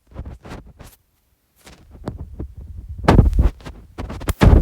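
Handling noise close to the microphone: irregular low thumps and rubbing, getting louder about three seconds in.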